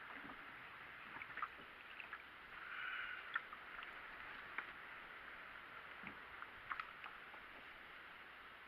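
Water lapping and splashing softly against a kayak's hull on the ocean, with a brief louder wash about three seconds in and scattered light ticks and knocks.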